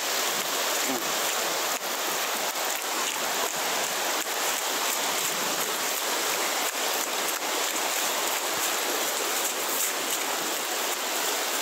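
Heavy rain falling while muddy floodwater rushes down a dirt street: a steady, even hiss.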